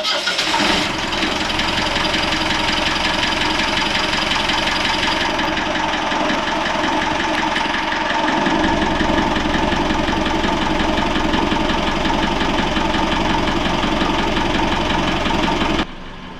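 Sailboat's newly installed inboard engine running steadily in the engine room, described as working well. About halfway through, its low rumble grows stronger, and the sound cuts off abruptly near the end.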